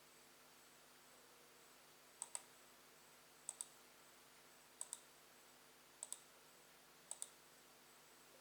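A computer mouse button double-clicked five times, a pair of quick clicks about every second and a quarter.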